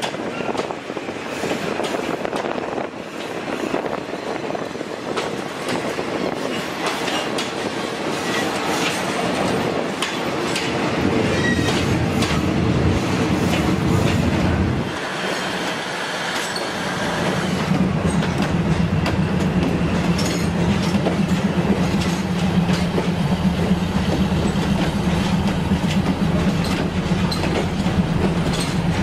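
Train passing close by: passenger coaches rumble past with wheels clacking over rail joints and brief squeals. After a short dip about halfway through, a steady low diesel engine hum comes in under the rolling noise as a diesel multiple unit passes.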